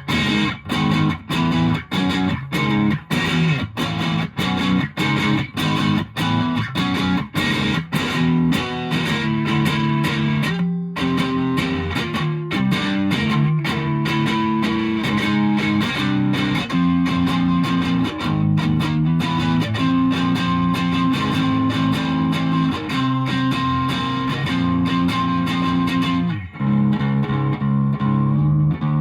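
Electric guitar (Fender Japan Jazzmaster) played through a 1985 Japanese-made Boss DS-1 distortion pedal into an ELK FSB-45 amp, picked up by a smartphone microphone. It starts with rapid, choppy chord stabs, then moves to held chords that change every second or so. Near the end the tone turns darker and loses its top end.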